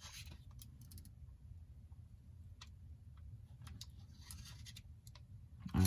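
Faint scattered clicks and light taps of tweezers and small iPhone parts being handled as a flex connector is seated, with a brief soft rustle a little after four seconds, over a low steady hum.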